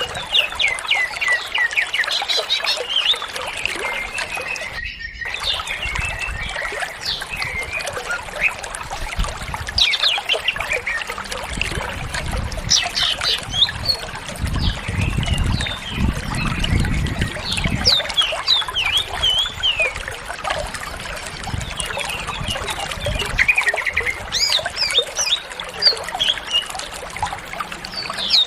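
Cucak ijo (green leafbird) singing a fast, continuous run of varied chirps and whistles over a steady trickle of running water. The sound drops out for a moment about five seconds in.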